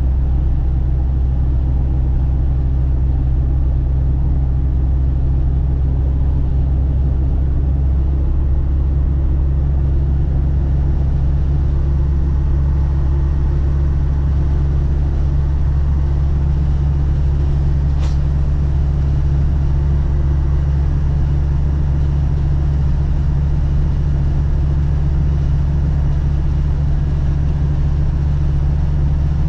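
Land Rover Defender TD5's five-cylinder turbodiesel engine running steadily with a deep, even rumble, its pitch unchanging.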